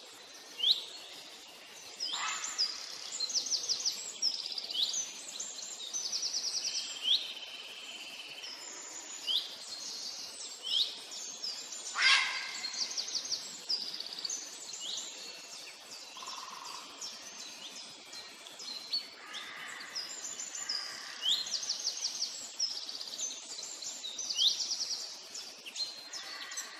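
Birds calling and singing, several at once: repeated short upward-sweeping chirps and fast high trills, with one sharp, louder sound about halfway through.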